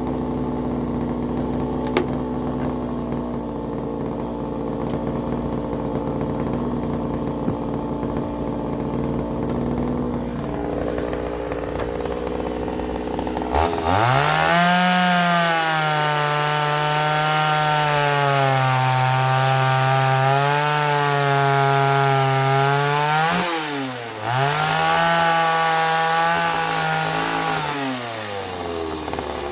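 Two-stroke chainsaw cutting into pine: after a steady engine hum, it is opened up about halfway through, its pitch sagging and recovering as the chain bites. It drops out briefly, comes back, and winds down near the end.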